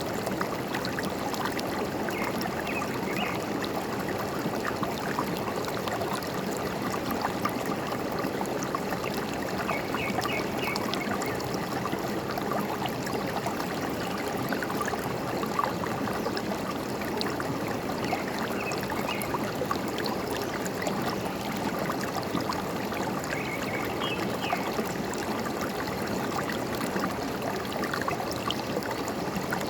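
Forest stream running and trickling steadily over stones. A bird chirps briefly in short clusters of high notes every several seconds.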